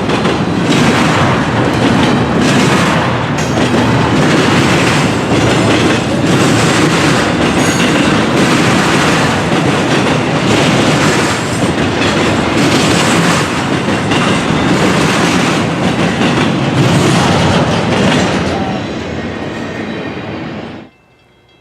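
Freight train rolling past close by, a steady loud rumble with repeated clickety-clack of wheels crossing rail joints and a faint wheel squeal; it cuts off suddenly near the end.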